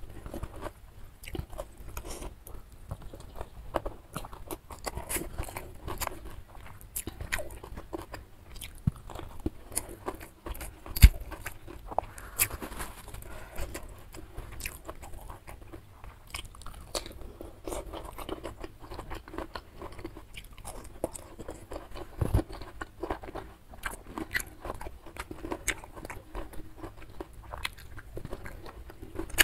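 Close-miked eating of nasi padang by hand: chewing and crunching with many small wet clicks. A sharp, much louder click stands out about eleven seconds in, and another near the end of the third quarter.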